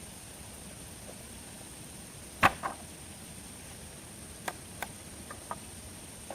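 A sharp knock about two and a half seconds in, a quieter one right after it, then a few light clicks over the next three seconds, over a faint steady hiss.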